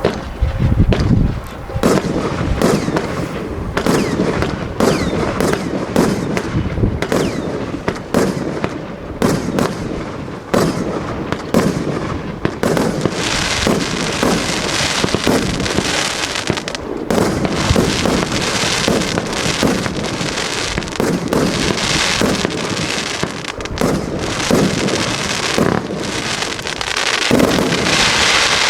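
A 36-shot, 30 mm assorted fireworks battery (cake) firing continuously: a rapid, uneven succession of launch thumps and aerial bursts, with several stretches of dense crackle.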